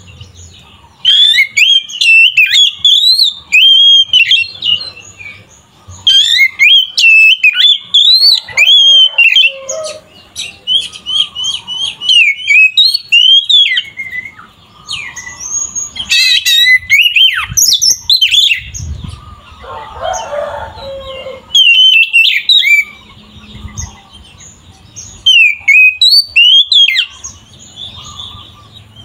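Oriental magpie-robin singing loudly in full song: rapid, varied whistled phrases and trills in bursts of a few seconds with short pauses. About twenty seconds in comes a brief rougher, lower sound.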